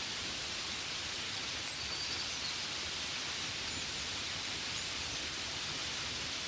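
Steady hiss of gentle rain falling, even and unbroken, with a few faint, brief high chirps in the first half.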